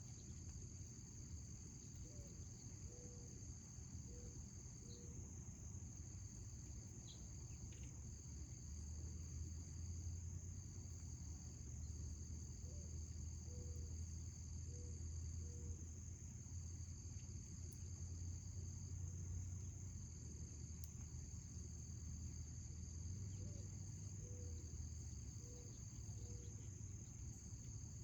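Insects, crickets by their sound, trilling steadily in the garden: one continuous high trill, with a second slightly lower trill that breaks off and resumes every few seconds. A faint low rumble sits underneath.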